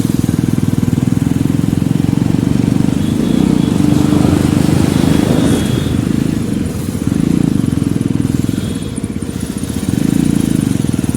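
Jawa Perak motorcycle's single-cylinder engine running under way with a steady low exhaust note. The throttle eases off twice, about six and a half and nine seconds in, then picks up again.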